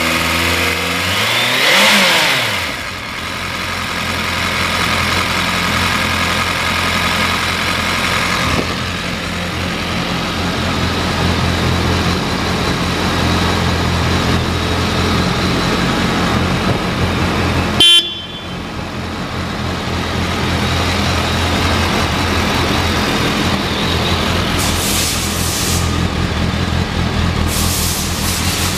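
2007 BMW K1200S inline-four engine running at idle, blipped once near the start so the note rises and falls, then settling back to a steady idle. About two-thirds of the way through, the horn gives one short beep.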